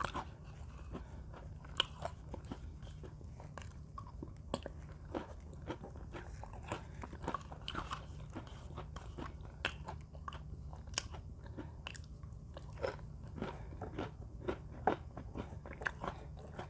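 Close-up crunching and chewing of Mini Oreo cookies: a stream of sharp, irregular crunches, several a second, over a steady low hum.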